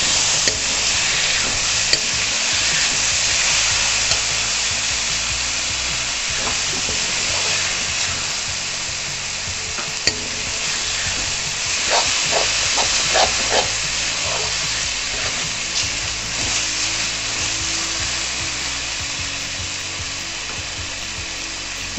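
Chopped tomatoes, onions and garlic sizzling steadily in hot oil in a wok while a spatula stirs and scrapes through them, the tomatoes being fried down. A few sharper spatula scrapes come a little past halfway.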